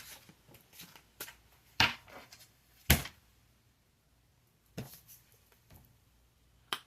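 Tarot cards being handled between draws: a few separate sharp taps and snaps, about four of them spread over several seconds, the loudest around three seconds in.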